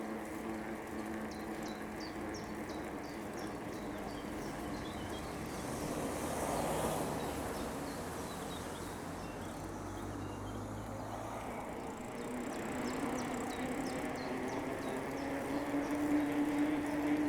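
Bicycle rolling along a path: steady tyre and drivetrain hum that rises slightly in pitch in the last few seconds, with two runs of short, high ticks.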